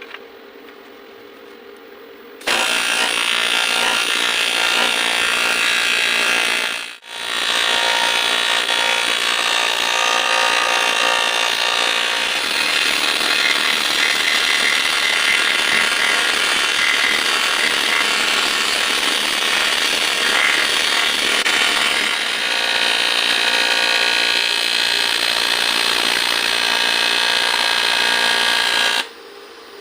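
A handheld power tool runs steadily for most of the stretch. It cuts out for a moment about seven seconds in and stops sharply near the end.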